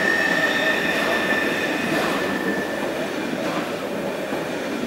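A TILO electric passenger train rolling slowly through a level crossing, its wheels and running gear rumbling steadily on the rails. A steady high squeal rides over the rumble and fades out about three seconds in.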